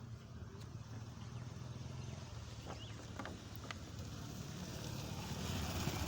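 Motorcycle engine idling steadily, with a few light clicks about three seconds in.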